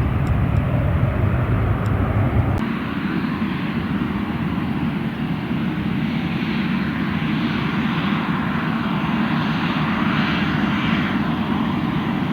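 Airliner engines running loud at the airport, a steady rumble and roar; about two and a half seconds in, the deep low rumble drops away suddenly and a broad roar carries on.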